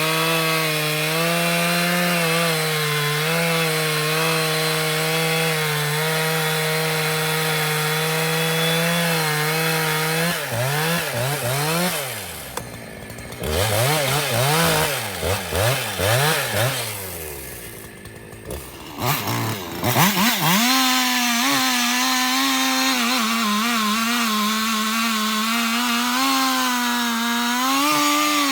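Two-stroke 272 chainsaw bucking a large maple log: it runs steady under load for about ten seconds, then the revs rise and fall repeatedly for about ten seconds, and from about twenty seconds in it runs steady again at a higher pitch.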